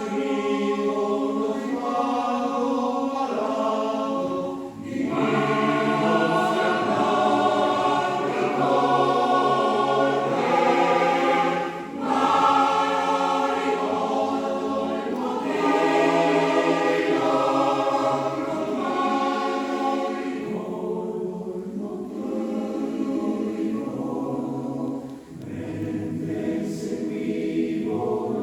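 Choir singing in several parts, in long held phrases with brief breaks between them about 5, 12 and 25 seconds in.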